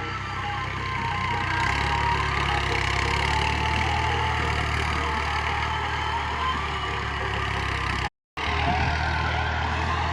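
Ghazi tractor's diesel engine running steadily, with a brief cut to silence about eight seconds in.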